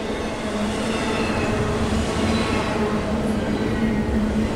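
Norfolk Southern double-stack intermodal freight cars passing at speed: a steady rolling roar of steel wheels on rail, with a constant low hum under it.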